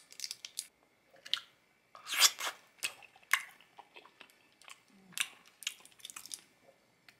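A person biting into and chewing a soft wedge of processed cheese close to the microphone: scattered wet mouth clicks and smacks, loudest about two seconds in.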